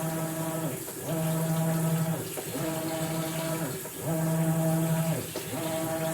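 Maytag Bravos XL top-load washer's drive motor humming through its wash agitation on a bedding cycle. The pitch alternates between a low and a higher tone about every second and a half, gliding briefly between them as the wash plate reverses back and forth.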